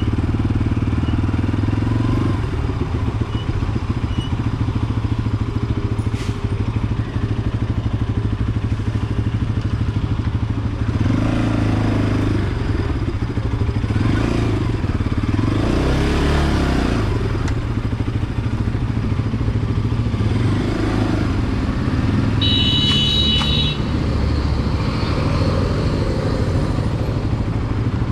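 Motorcycle engine running steadily with a continuous low rumble as the bike is ridden, with swells of passing noise. About three-quarters of the way through comes a short, high-pitched tone.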